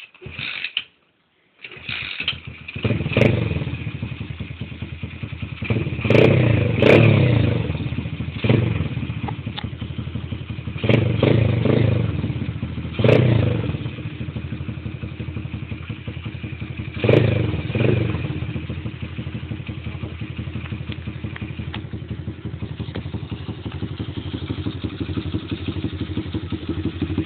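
125cc Welsh pit bike's single-cylinder four-stroke engine starting about two seconds in, then running with a string of short throttle blips before settling to a steady idle for the last third.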